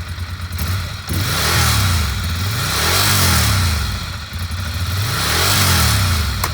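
2013 Ducati Monster 696's L-twin engine idling with an uneven pulse, then revved twice, the pitch climbing and falling back each time before settling to idle.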